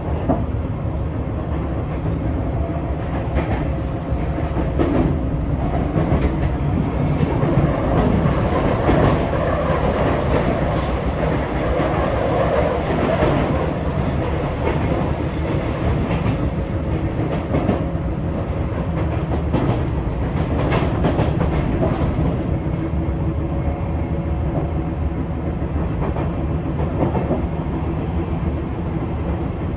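Sotetsu 8000 series electric train running at speed, heard from inside the car: steady wheel-and-rail rumble with wheels clattering over rail joints through the middle of the stretch, and a faint steady hum underneath.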